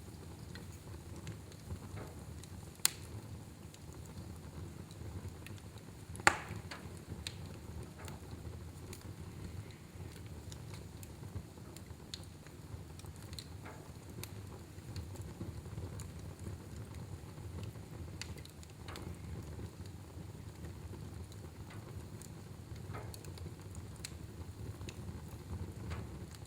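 Fire burning in a fireplace: a steady low rumble of flame with scattered small crackles, and two sharp pops about three and six seconds in.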